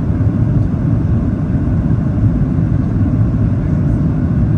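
Steady low rumble of airflow and CFM56-7B engines heard inside the cabin of a Boeing 737-800 on final approach.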